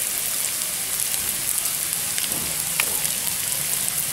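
Onion, green chickpeas and green chillies frying in oil in a steel kadhai: a steady sizzling hiss with a few sharper crackles, while turmeric powder is added.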